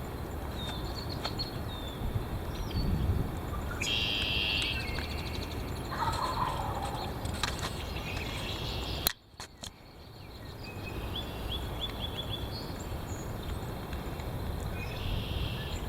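Wind buffeting the microphone, with a few bird calls over it: a short call about four seconds in, a lower call about six seconds in, and quick chirps later. The wind noise drops out suddenly about nine seconds in and gradually builds back.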